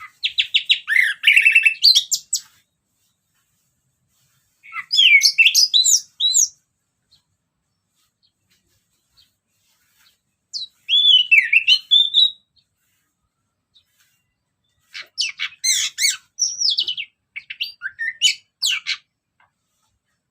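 Orange-headed thrush singing in four separate phrases of varied whistles, slides and quick notes, with pauses of a few seconds between them.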